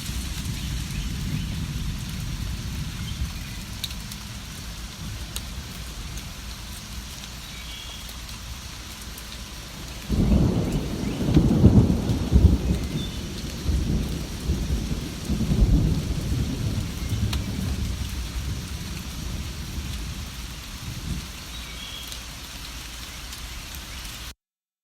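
Steady rain falling, with a rumble of thunder rolling in suddenly about ten seconds in. The thunder is loudest a couple of seconds later and fades over several seconds. All sound cuts off abruptly just before the end.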